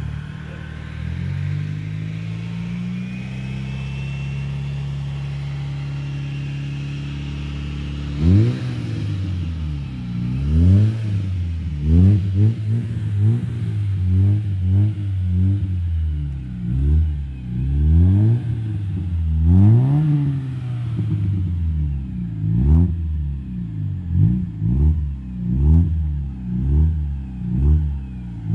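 Fiat Punto 1.1 55 hp four-cylinder engine heard at the exhaust, idling steadily for about eight seconds. It is then revved in a string of short blips, each rising and dropping back, coming quicker toward the end.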